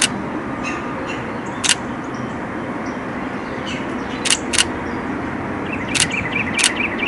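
Canon 90D DSLR shutter firing single frames, about seven sharp clicks at uneven intervals, two of them in quick succession midway and three close together near the end, over a steady low background hum.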